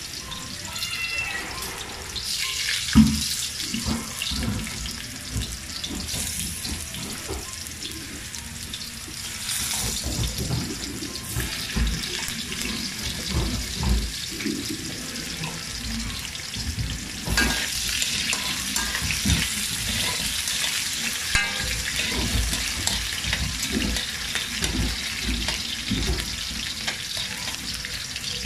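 Cubed potatoes sizzling as they fry in oil in a wok, with a spatula knocking and scraping against the pan now and then. The sharpest knock comes about three seconds in.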